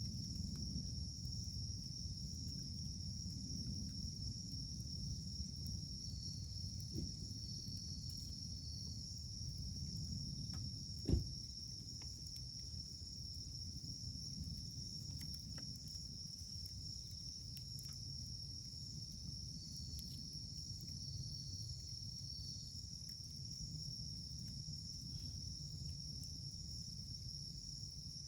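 Wood campfire burning with a low rumble and sparse crackles, with one loud sharp pop about 11 seconds in. A steady high insect trill runs underneath.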